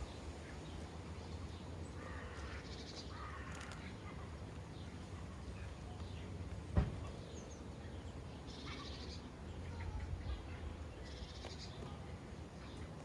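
Sparrows chirping in three short flurries over a steady low rumble, with a single sharp knock about seven seconds in.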